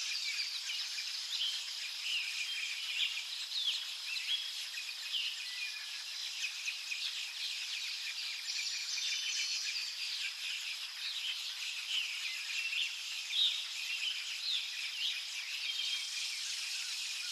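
Forest ambience: many small birds chirping and calling in short notes over a steady, high insect drone.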